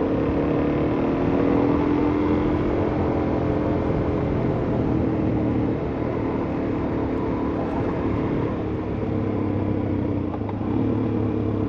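Suzuki DR-Z400S single-cylinder four-stroke engine running under way as the dual-sport bike is ridden, its pitch shifting a little with the throttle over the terrain.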